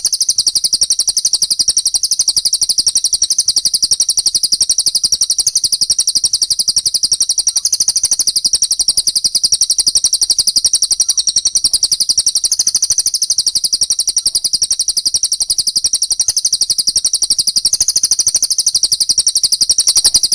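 Recorded songbird song played as a tutoring track: a fast, unbroken stream of high, sharp chirps that cuts off suddenly at the very end.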